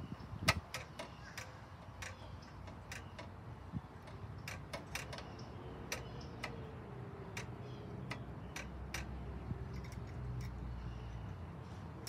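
Scattered light clicks and taps at an uneven pace: hands working on the parts of a small engine that is not running.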